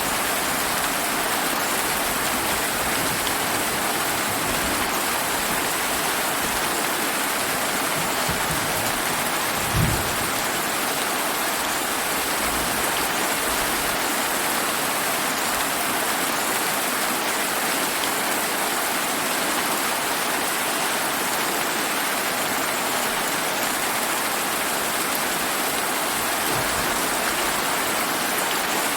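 Steady summer rain falling, an even hiss of drops, with a brief low rumble of thunder about a third of the way through.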